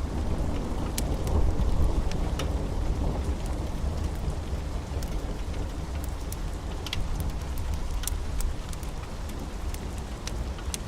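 Steady rain with a low rolling rumble of thunder, heaviest in the first couple of seconds and then easing off. Scattered sharp crackles sound over the rain.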